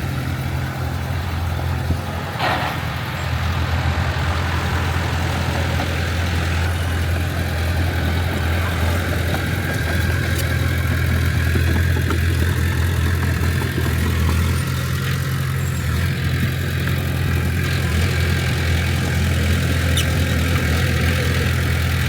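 Heavy diesel engine of earthmoving machinery running steadily at a low, even pitch, with a brief knock about two and a half seconds in.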